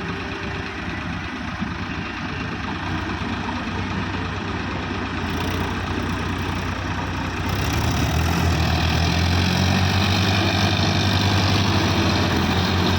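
Tractor diesel engine running steadily, growing louder and heavier about two thirds of the way in as it pulls away through the muddy field.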